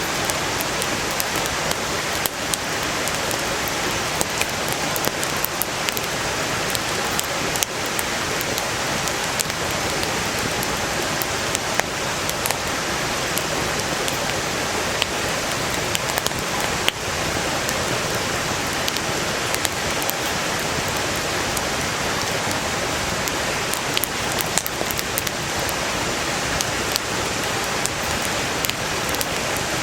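Valley stream rushing steadily and loudly, with scattered sharp crackles of burning firewood.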